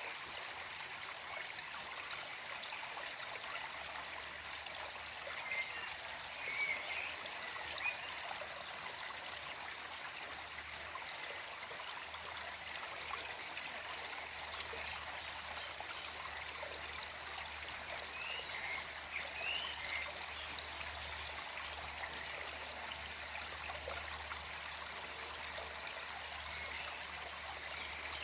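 Small forest stream flowing and trickling steadily over stones, with a few short bird chirps in the background, twice in small clusters and once more near the end.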